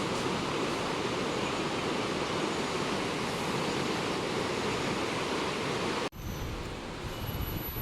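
Steady, even rushing noise, such as flowing water or rain, that cuts off abruptly about six seconds in. A duller rushing noise with faint steady high-pitched tones follows.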